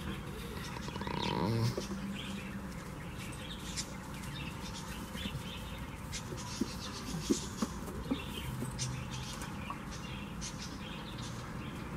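Small birds chirping on and off, with one short, louder animal call about a second and a half in.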